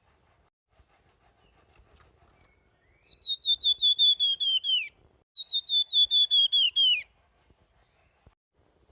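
Songbird known in Indonesia as flamboyan singing two rapid trills of repeated whistled notes, each about two seconds long with a short gap between. The notes sink slightly in pitch through each trill and drop away at its end.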